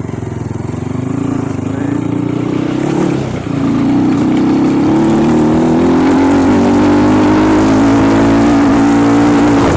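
Off-road trail motorcycle engine pulling under throttle, its pitch rising, dipping briefly about three seconds in, then running louder and climbing steadily.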